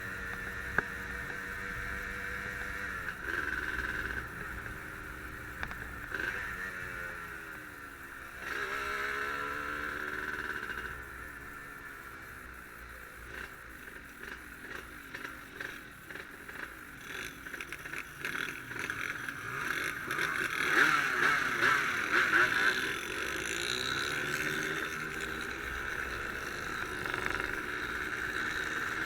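Yamaha RD135 two-stroke motorcycle engine running under way, its revs climbing and dropping again and again as it is ridden.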